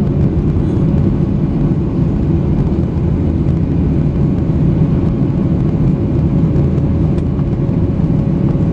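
Steady, loud rumble of an airliner's jet engines and airflow heard from inside the passenger cabin, with a faint steady hum underneath.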